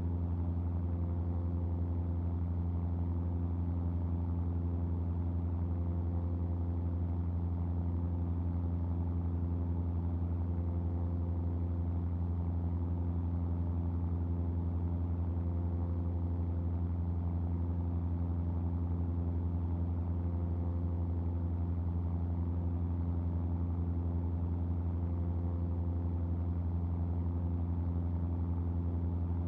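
Cessna R182 RG's Lycoming O-540 six-cylinder engine and propeller in steady cruise: a constant, even drone with a strong low hum and no change in pitch.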